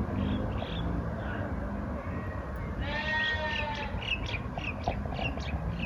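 One drawn-out animal call with a bleat-like tone, lasting under a second about three seconds in, followed by a run of short high bird chirps, about three a second, over a steady outdoor background noise.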